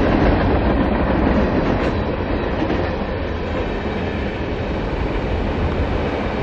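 Freight cars of a long CSX train rolling past at speed: a steady rumble of steel wheels on the rails.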